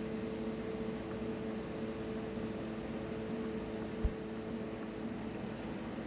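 Steady background hum of a fan or appliance, with several steady tones over a soft hiss, and a single low thump about four seconds in.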